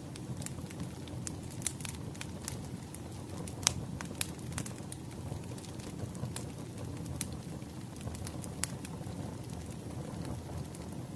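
Wood fire burning steadily, with a low rumble under irregular sharp crackles and pops from the logs; one pop about four seconds in stands out.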